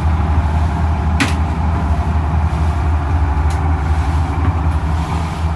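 Steady low drone of the boat's inboard engine running, heard from inside the cabin below deck. There is a single brief click about a second in.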